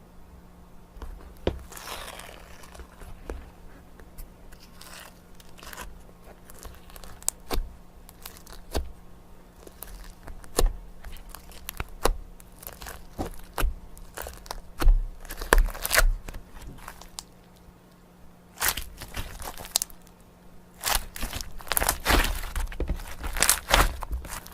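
Crinkling, tearing and crackling from something being handled, in irregular clusters of sharp crackles and pops that grow densest in the last few seconds.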